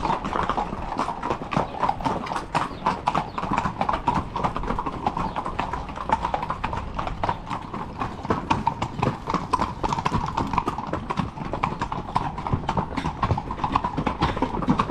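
Horses' hooves clip-clopping, a dense, irregular run of sharp hoof strikes.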